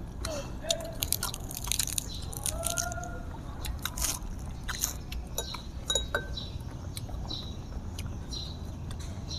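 Close-up chewing and crunching of fresh lettuce leaves wrapped around food, with sharp clicks and mouth smacks scattered throughout.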